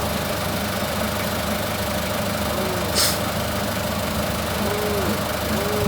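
Forklift engine idling steadily, with a short hiss about three seconds in.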